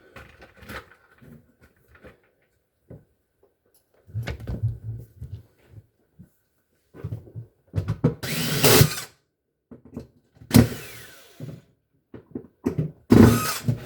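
Power drill driving in the last screw or bolt in several short runs, with clicks and knocks of handling between them.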